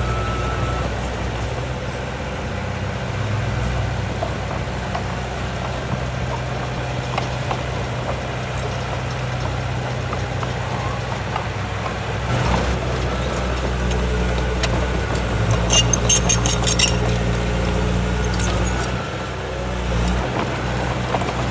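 Heavy diesel engine of earthmoving machinery running steadily with a low, even hum. About sixteen seconds in there is a quick run of sharp clicks or rattles.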